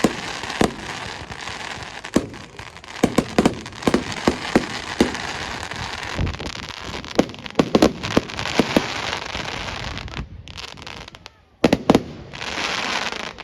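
Fireworks going off: many sharp bangs and pops over a continuous hiss. There is a lull about ten seconds in, then two sharp bangs and a burst of loud hiss near the end.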